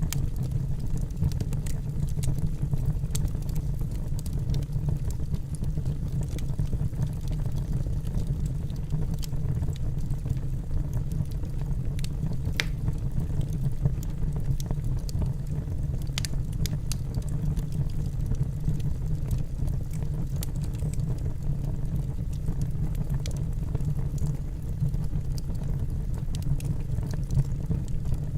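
Wood fire burning in a fireplace: a steady low rumble of the flames with scattered crackles and pops from the logs, a few sharper pops about 12 and 16 seconds in.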